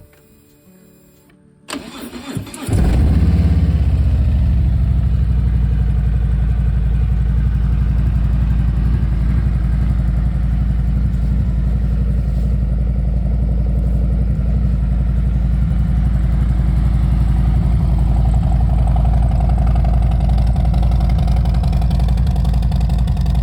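Harley-Davidson Road King's Milwaukee-Eight 114 V-twin being started: a brief crank about two seconds in, then it catches and settles into a steady, loud, low idle.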